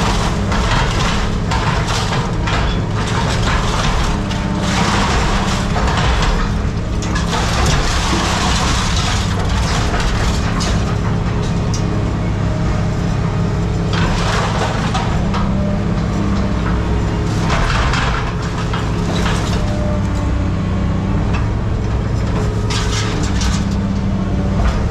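A heavy engine running steadily, with repeated crunching and crashing of scrap metal being handled, in loud bursts a few seconds apart.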